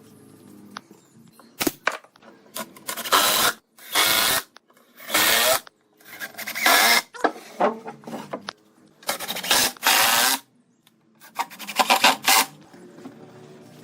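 A hand tool working wood in about six irregular rasping strokes, each half a second to a second long, with a few light knocks between them.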